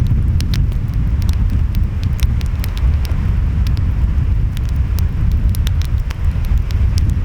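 Wood fire crackling, with frequent sharp irregular pops, over a steady deep rumble of ocean waves and wind.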